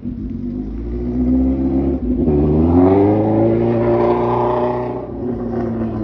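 Car engine revving: the pitch climbs from about a second in, dips briefly near two seconds, rises again and holds high, then drops back toward idle near five seconds.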